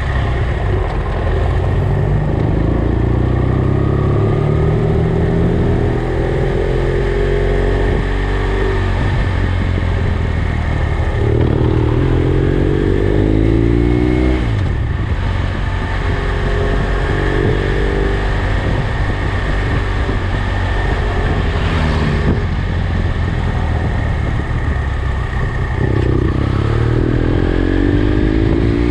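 BMW F800GS motorcycle's parallel-twin engine pulling up through the gears, its pitch rising several times and dropping back at each shift, over steady wind rush.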